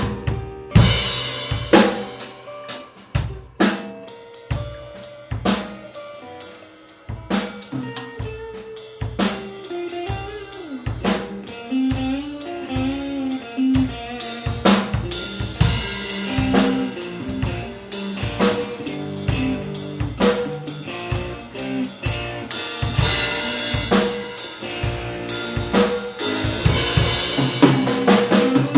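Drum kit playing a busy improvised groove of kick, snare and rimshots, with a guitar picking out a melody line over it in a fusion-blues style.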